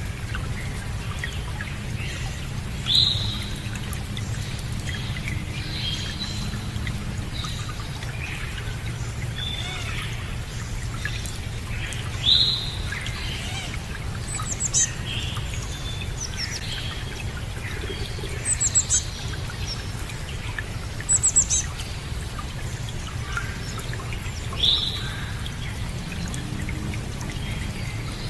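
Birds calling over steady running water. A loud down-sweeping call comes three times, about 3, 12 and 25 seconds in, with short clusters of very high chirps in between.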